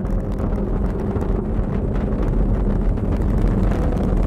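Falcon 9 rocket's nine first-stage Merlin engines during ascent: a steady, deep rumble with crackling.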